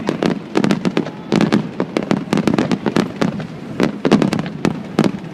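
Fireworks display at its finale: a rapid barrage of aerial shells bursting, several sharp bangs a second running into one another.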